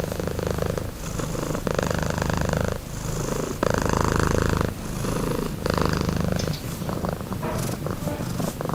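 Cat purring close to the microphone, a low continuous rumble that swells and changes with each breath in and out, about once a second.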